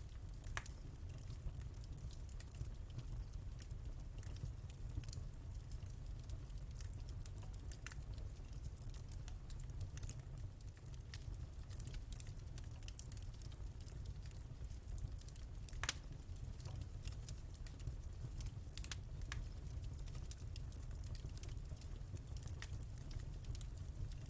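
Wood fire burning in a fireplace: a steady low rumble with frequent irregular crackles and pops, a few sharper snaps standing out.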